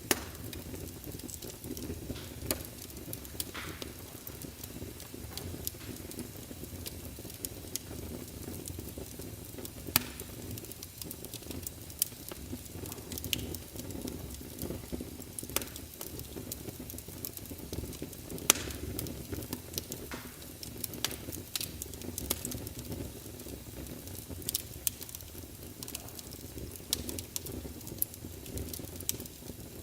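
Wood fire in a fireplace, burning logs crackling with a steady low rumble of flame and frequent sharp pops, a few of them louder.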